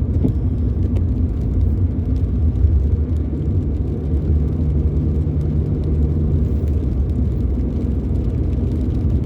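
Steady low rumble inside a car's cabin while driving in the rain: engine and tyres on the road, with a faint hum that holds one pitch.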